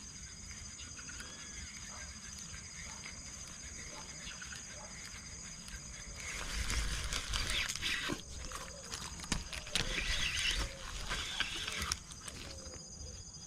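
Insects trilling steadily in several high pitches. About six seconds in, a louder stretch of rustling and handling noise with low thumps and clicks begins and dies away about twelve seconds in.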